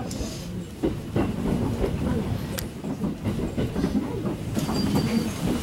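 Train carriage rolling into a station, heard from inside: a steady rumble with wheels knocking over rail joints and points. A thin, high steady squeal from the wheels or brakes starts near the end as the train slows.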